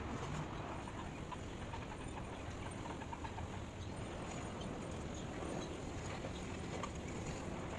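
Steady rushing background noise, heaviest in the low end, with faint scattered ticks.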